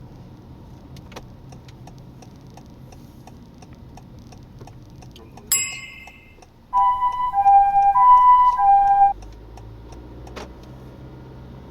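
Turn-signal relay ticking about three times a second inside the car's cabin over a low engine and road hum. About halfway through a short electronic ping sounds, then a louder melody of alternating electronic tones plays for about two seconds from an in-car device.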